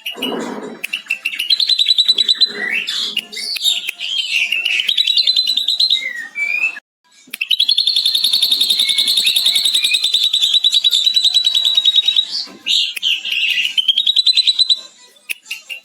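Ashy drongo singing a mimicked lovebird chatter ('ngekek'), a rapid trill held unbroken for about five seconds in the middle, set among varied chirps and whistles. The song breaks off for a moment shortly before the long trill.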